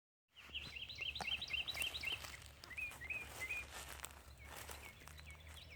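Small songbirds chirping: a quick run of short repeated chirps in the first two seconds, then slower, spaced chirps, over a faint steady low hum.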